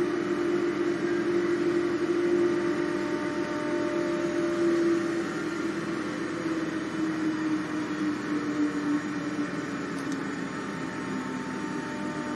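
Electric commuter train running, heard from on board: a steady rumble with a motor whine that slowly falls in pitch from about halfway through as the train slows for its next stop.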